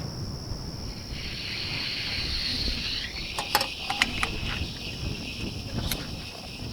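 Insects, crickets by the sound of it, chirring steadily and high-pitched, with low wind rumble on the microphone. Several light clicks and knocks come in the middle.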